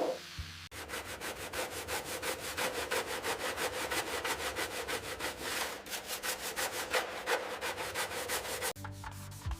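Abrasive rubbing in quick, even back-and-forth strokes, about five or six a second, like hand sanding a part, after a brief sharp swish at the start. The strokes stop shortly before the end.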